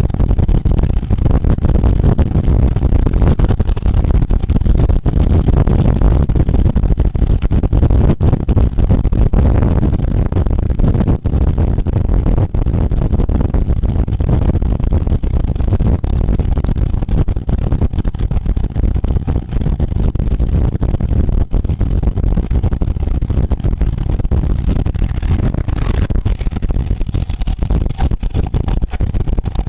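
Steady heavy wind rumble on the microphone of a camera riding along on a racing bicycle at speed, with road noise underneath.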